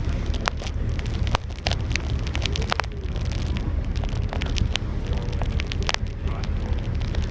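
Steady low rumble of a moving ferry with wind buffeting the microphone, crackling irregularly throughout.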